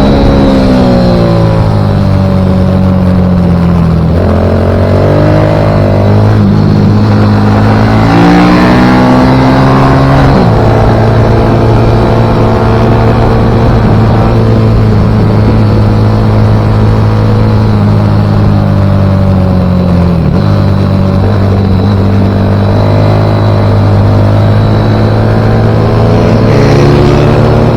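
Pit bike engine running hard on track, its pitch climbing as the throttle opens and dropping in sudden steps with gear changes, about ten seconds in and again near twenty seconds.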